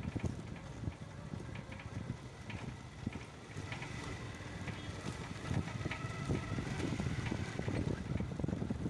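Wind buffeting the microphone on a moving motorcycle, over a steady low road and engine rumble.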